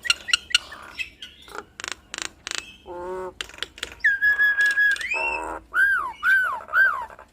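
Jalak nias starling singing a varied song. Rapid clicking notes come first, then a held whistle about four seconds in, and three falling whistled notes near the end.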